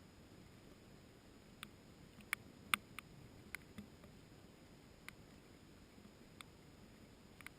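Scattered raindrops falling, each landing as a sharp tick at uneven intervals, about eight in all, over a faint steady hiss.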